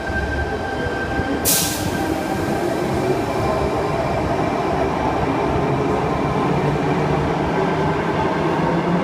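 Sydney Trains Tangara double-deck electric train pulling out of an underground platform, its wheels and running gear rumbling steadily and slowly getting louder as it gathers speed past. A short hiss comes about a second and a half in.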